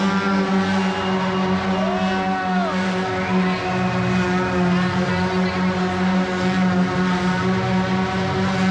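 Monster truck engine running at a steady pitch, with a brief rise and fall in pitch about two seconds in.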